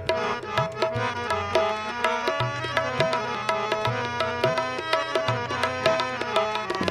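Instrumental interlude of a devotional bhajan: tabla playing a quick, steady rhythm, with low bass-drum strokes that bend in pitch, under sustained melody notes.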